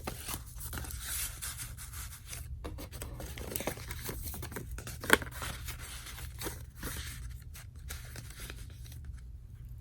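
Paper and card rustling and scraping as journaling cards and ephemera are slid back into a paper pocket of a handmade file folder, with one sharp tap about five seconds in.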